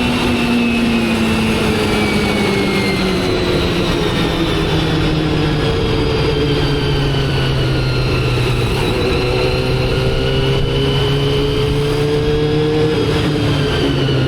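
Motorcycle engine running on the move, its pitch falling over the first few seconds, holding and slowly climbing, then dropping sharply near the end as the throttle is eased.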